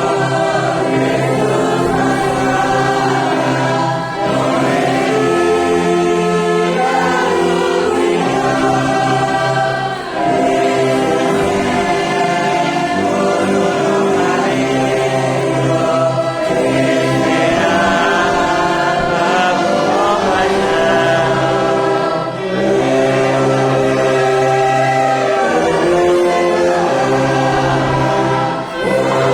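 A large congregation singing a hymn in chorus with an orchestra accompanying. It goes in long held phrases with a short breath-break about every six seconds.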